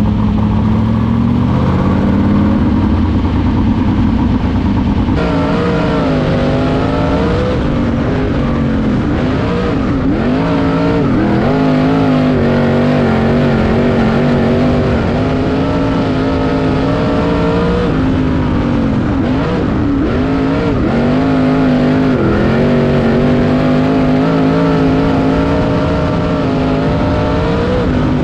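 Sprint car engines running laps on a dirt oval, the engine note rising on the straights and dropping away again and again as the cars back off for the turns.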